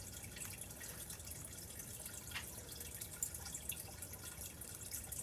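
Faint, scattered small clicks and crinkles of a bag and the items inside it being handled and pulled out.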